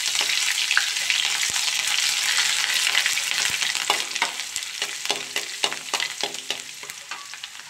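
Ginger, green chillies and cumin sizzling in hot mustard oil in an iron kadhai, stirred with a metal spatula that scrapes and taps against the pan. The sizzle is strongest at first and dies down, and from about halfway the scrapes and taps of the spatula stand out.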